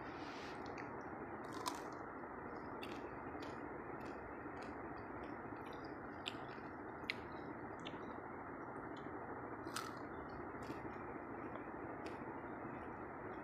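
A person chewing jalebi: scattered small mouth clicks over a steady background hiss, with a few sharper clicks about two, six to seven, and ten seconds in.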